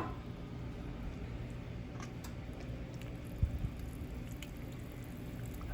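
Milk and cheese pouring from a jug into a pot of soup, a soft steady wet splashing, with two short low thumps about three and a half seconds in.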